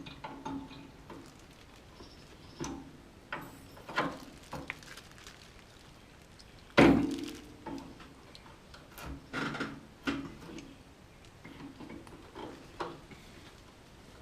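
Hand tools working on metal hood fittings: scattered clicks and light knocks, with one loud knock about seven seconds in.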